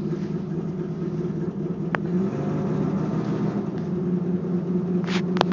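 1965 AMC Rambler inline-six engine idling just after a cold start, running real rough because it is still cold. A couple of sharp clicks cut in, one about two seconds in and one near the end.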